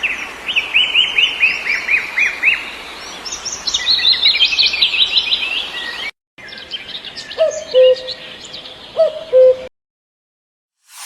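Birds chirping in quick repeated series of high chirps. After a brief cut, scattered chirps continue, with two louder, short, low calls a second and a half apart, then the sound stops.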